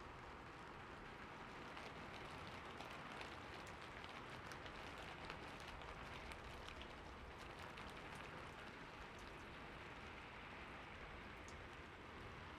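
Steady rainfall, with scattered individual drops ticking on a surface.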